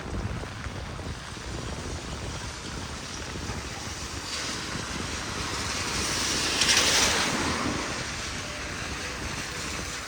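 Heavy rain falling as a steady hiss, with the spray hiss of a vehicle passing on the wet street that swells to a peak about seven seconds in and then fades.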